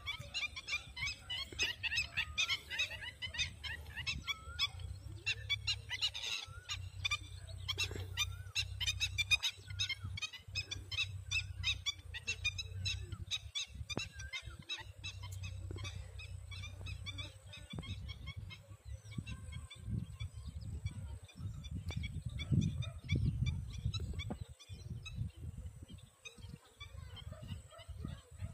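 Birds calling over and over, many short calls in quick succession that are thickest in the first ten seconds or so and thin out toward the end, over a steady low rumble.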